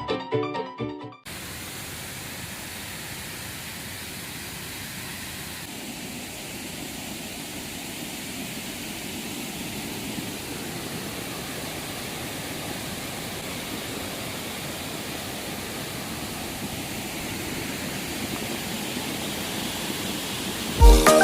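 Background music cuts off about a second in, giving way to a steady, even rush of flowing river water; the music starts again at the very end.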